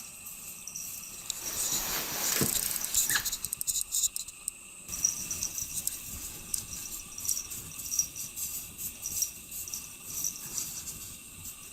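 Insects chirping steadily in a high-pitched pulsing chorus, with a brief rushing noise and a few clicks a couple of seconds in.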